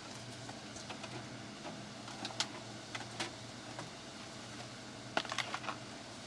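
Scattered light clicks and taps at an irregular pace, a few in a quick cluster near the end, over a steady low hum.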